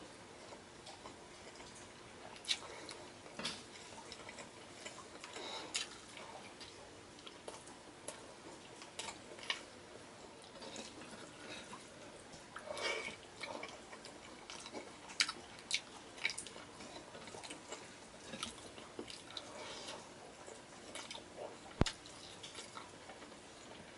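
Faint close-up eating sounds: wet chewing, lip smacks and scattered mouth clicks as beef kaldereta and rice are eaten by hand, with one sharper click a little before the end.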